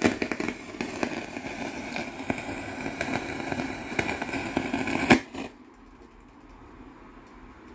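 Dense crackling: many small irregular clicks and pops over a hiss, ending with one sharper click about five seconds in; after that only a faint, steady background.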